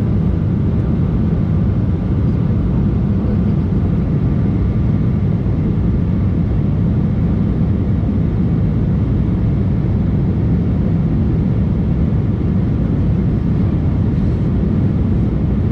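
Steady, deep cabin drone of an Embraer E190 jet airliner in flight, with a faint steady whine above it.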